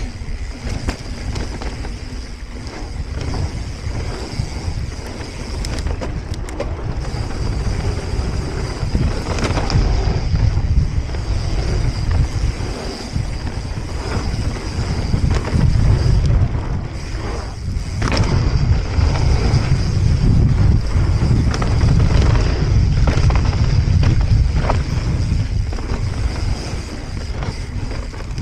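Wind buffeting an action camera's microphone as a mountain bike rides a dirt trail, with tyre rumble and frequent knocks and rattles from the bike over rough ground. It gets louder about ten seconds in and again for a long stretch from about sixteen seconds.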